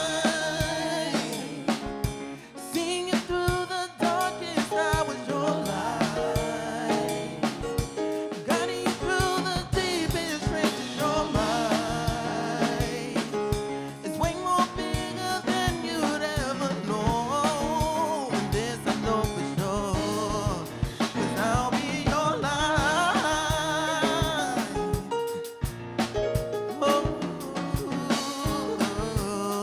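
Live soul band performing a song: drum kit keeping a steady beat under chords, with a wavering melodic line, likely vocal runs or ad-libs, above it.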